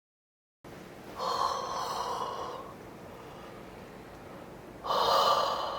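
A woman's two heavy, audible breaths, like sighs or gasps, about four seconds apart, each strongest at its start and trailing off, over a low room hiss.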